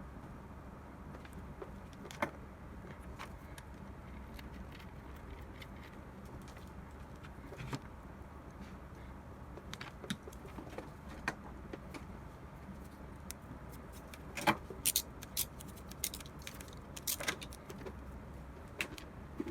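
Scattered small clicks and taps of hand work on an espresso machine's power wiring, sharper and more frequent about three quarters of the way through, over a low steady hum.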